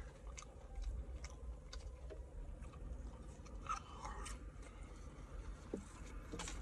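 A man chewing and eating, with scattered faint crunches and small clicks, over a low steady hum.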